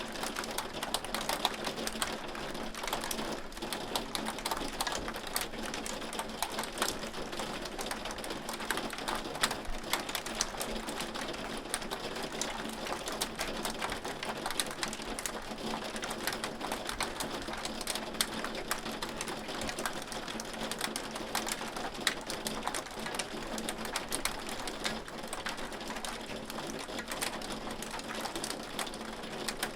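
Hailstones pelting a hard surface in a dense, steady patter of sharp clicks and ticks.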